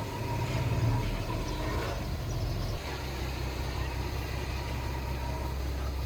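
Heavy diesel engine of earthmoving machinery running steadily, its low note shifting about three seconds in.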